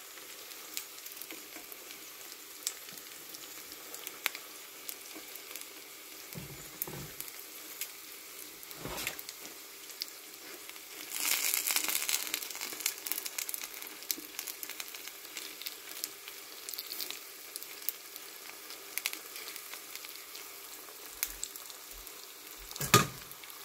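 Dumplings pan-frying in olive oil on an electric griddle: a steady sizzle with scattered crackles. The sizzle swells louder for about two seconds near the middle as tongs move the dumplings, with a few soft knocks elsewhere.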